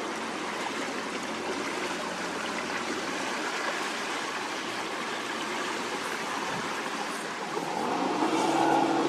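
A steady rush of strong wind and moving river water. Near the end the steady hum of a boat engine comes in and grows louder.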